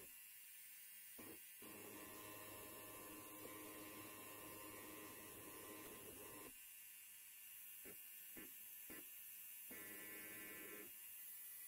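Electric hair clipper buzzing faintly with a steady hum. A fuller buzz comes and goes in stretches of a few seconds, with a few brief flicks in between.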